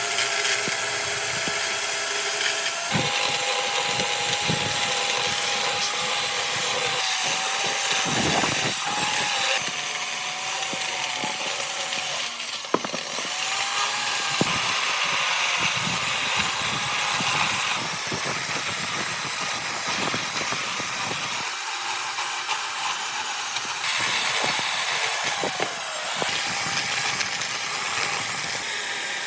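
Power tool working wood, its motor whine dipping and recovering as it takes load, in short segments that change abruptly every few seconds.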